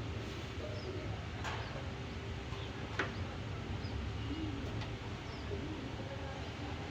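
Birds calling over a steady low hum, with two sharp clicks, one about a second and a half in and one about three seconds in.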